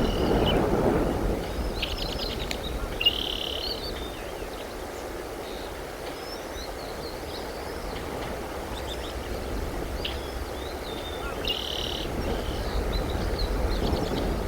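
Birds chirping: short, high calls come in clusters, busiest about three seconds in and again near the end, over a steady low rumbling background noise.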